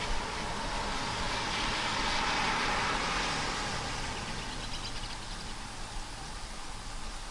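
A vehicle passing on a wet road: its tyre hiss swells, peaks a couple of seconds in and fades away, over a steady wash of rain.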